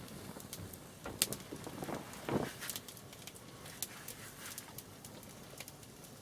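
Wood fire crackling, with scattered sharp pops, one louder pop about a second in, and a few duller knocks.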